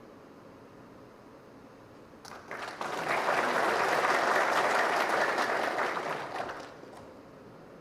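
Audience applauding: a round of clapping that starts about two seconds in, swells quickly, holds, and dies away about a second before the end.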